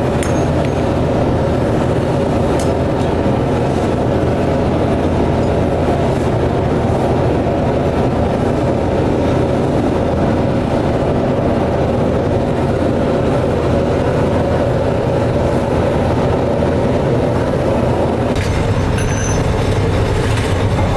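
Heavy factory machinery in a brass-pipe works running steadily and loudly, with a dense, even mechanical clatter; the lower part of the sound shifts and grows stronger near the end.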